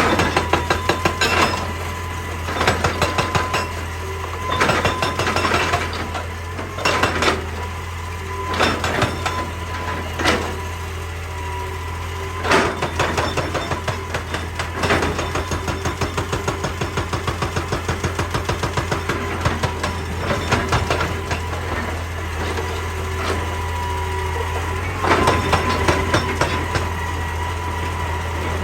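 Excavator's diesel engine running steadily under bursts of rapid hammering from a hydraulic rock breaker striking rock, with a steady high whine throughout. The strikes come in short bursts every second or so at first, then as a longer unbroken run in the middle.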